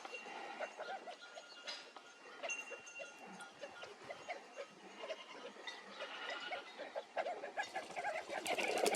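Flock of birds calling continuously, a busy chatter of many short, low calls mixed with higher chirps, growing louder and denser near the end.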